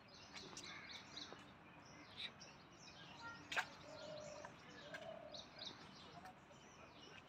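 Birds chirping faintly, many short high calls overlapping, with a single sharp click about three and a half seconds in.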